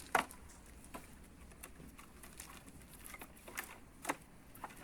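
Firewood and dry plant matter being handled while the bonfire is stacked: a handful of sharp, irregular knocks and snaps, the loudest just at the start.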